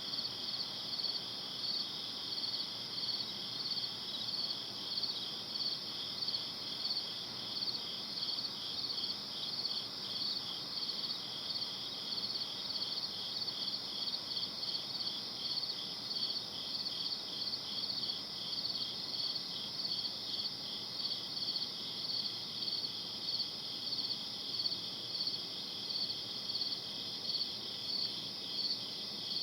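Crickets chirping in a steady night chorus: two overlapping high, rapidly pulsing trills with a regular beat, over a faint even hiss.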